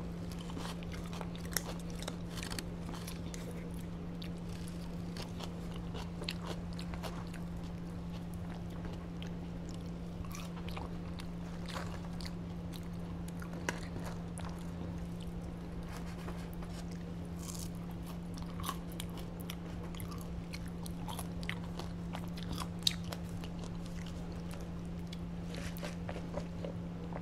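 Close-up chewing and biting of fried chicken tenders, fries and coleslaw, with scattered small crunches and clicks of a plastic fork and foam box, over a steady low hum.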